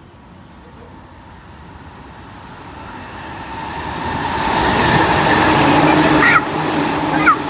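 Shinkansen bullet train passing through the station at speed without stopping: a rushing roar that builds over about five seconds and drops off suddenly a little after six seconds in.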